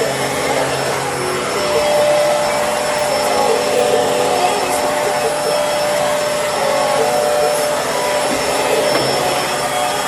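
Bissell Helix vacuum cleaner running steadily while vacuuming, a constant motor hum with a steady whine.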